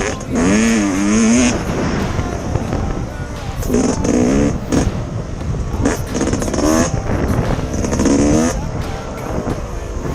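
Yamaha YZ250X single-cylinder two-stroke dirt bike engine revving hard and easing off in repeated surges, its pitch rising and falling about four times, over a steady low rumble.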